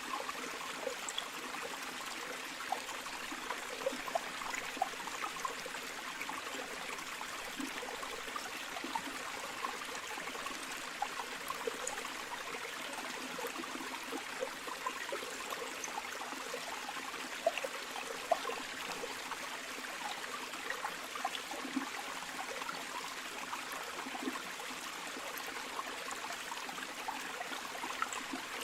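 Flowing river water running steadily, a continuous rush dotted with small splashes and gurgles.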